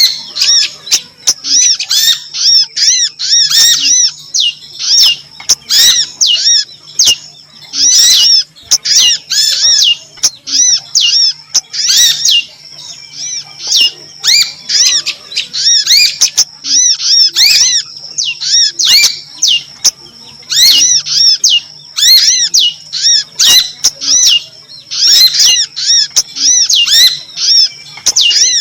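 Small songbird's recorded calls used as a lure: rapid series of high, arching chirps in bursts of a second or two, separated by short pauses, over a faint steady low hum.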